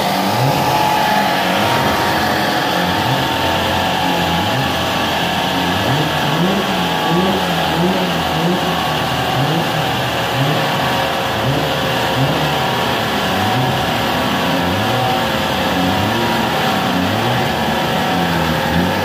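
Turbocharged Toyota 2JZ straight-six in a Nissan S13, running stationary and revved in repeated short blips, the revs rising and falling about once a second, while its engine management is being tuned.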